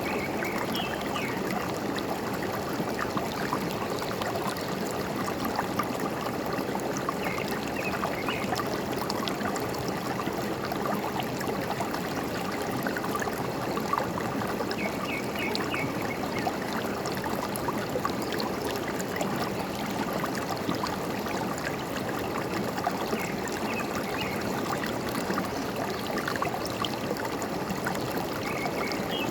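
Forest stream running and trickling steadily. A small bird gives a short, high chirping phrase about every eight seconds.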